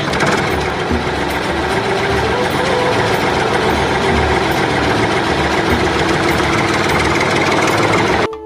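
Engine of a homemade mini rice harvester running steadily with a low throbbing pulse; the sound cuts off abruptly near the end.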